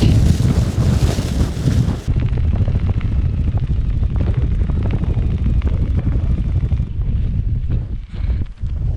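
Strong wind buffeting the microphone, a loud, heavy rumble of gusts that eases briefly about eight seconds in.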